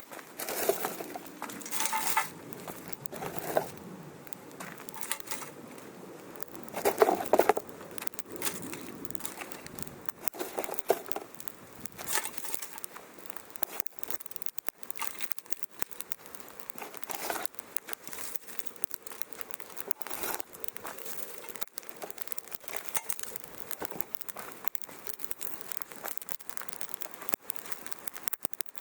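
Wood fire in a fire pit crackling, with irregular sharp snaps and pops; louder, fuller bursts in roughly the first twelve seconds, then steady small crackles.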